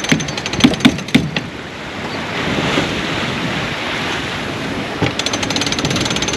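Wind and sea rushing past a sailboat, with wind buffeting the microphone. A few sharp knocks come in the first second or so, and a fast clicking clatter starts about five seconds in.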